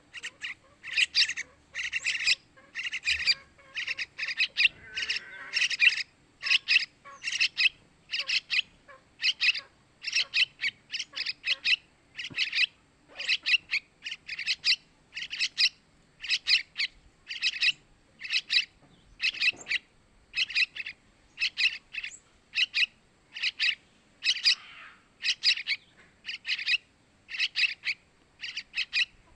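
Young yellow-vented bulbul (trucukan) calling over and over: short, harsh chirping bursts, about one to two a second, keeping a steady pace.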